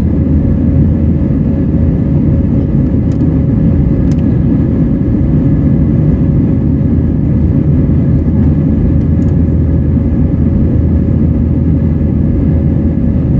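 Airbus A320 cabin noise in flight: the steady roar of airflow and the IAE V2500 turbofans, with a constant low hum and a faint steady whine. A few faint clicks sound over it.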